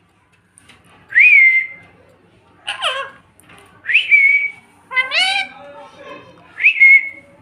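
Pet parrot whistling three times, each a quick rising whistle that levels off and holds. Between the whistles come two harsher, voice-like calls.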